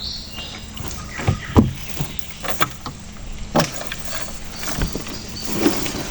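Several short knocks and thuds on a small wooden boat over a steady low hum.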